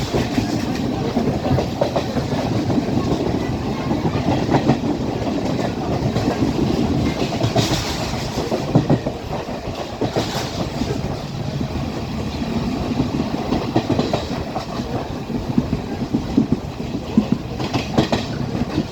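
Class S12 diesel multiple unit running along the line: a steady rumble with wheels clattering and knocking over the rail joints.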